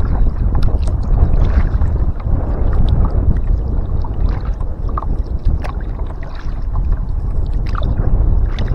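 Kayak moving on a river, heard from a camera mounted on the boat: a heavy, uneven low rumble of wind and water buffeting the microphone, with scattered small splashes and drips from paddling.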